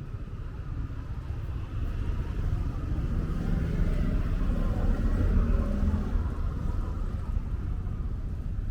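A motor vehicle driving past, its engine and tyre rumble growing louder to a peak about five seconds in and then fading.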